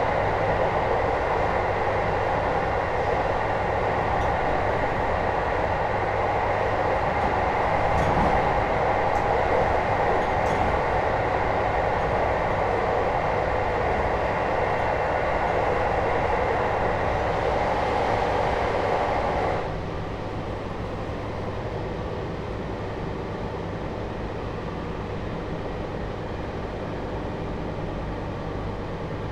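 Inside a JR Hokkaido 721 series electric train's motor car with Toshiba GTO inverter traction equipment, running steadily at speed, with a few light clicks about a third of the way in. About two-thirds in, the running noise drops suddenly and stays lower.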